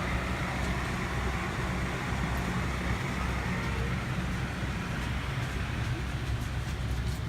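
Steady hum and hiss of an Airbus A319 airliner cabin parked at the gate, with the air conditioning running.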